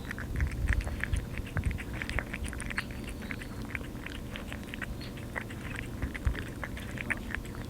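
A cat eating wet food from a can, chewing and smacking in many quick, irregular clicks.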